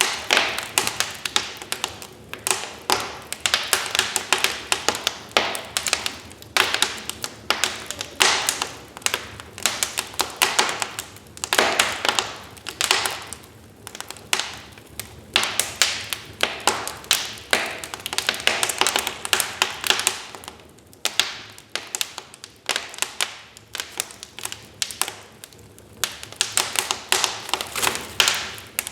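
Wood fire crackling in a fireplace: dense, irregular snaps and pops that come in clusters, with a few quieter stretches between them.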